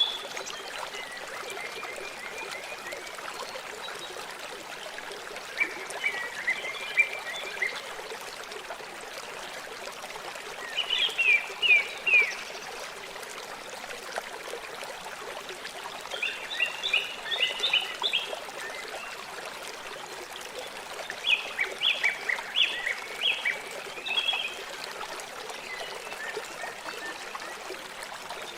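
River water flowing with a steady rush, while a bird sings a short phrase of rapid high chirps about every five to six seconds.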